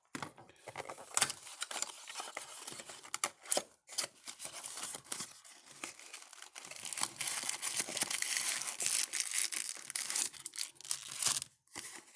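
Packaging being torn and crinkled as a mini box of trading cards is opened, with irregular sharp crackles that grow busier in the second half.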